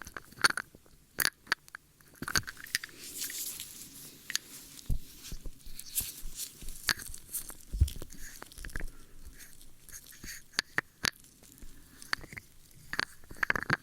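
ASMR ear-cleaning sounds close to the microphone: irregular crackles, clicks and scratching, with a longer stretch of soft scratchy rustling about three seconds in.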